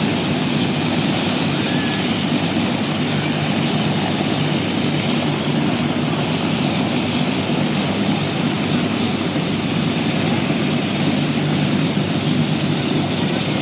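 Air-ambulance helicopter running steadily: a low rotor and engine drone under a high, constant turbine whine.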